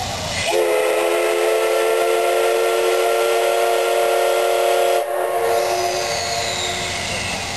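JNR Class C58 steam locomotive's steam whistle giving one long blast. It starts about half a second in as a chord of several steady tones and dies away after about five seconds.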